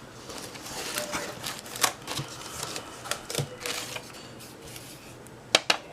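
Hands unpacking a shipping box: scattered clicks, knocks and light rustling of cardboard and packing, with a sharp double click near the end.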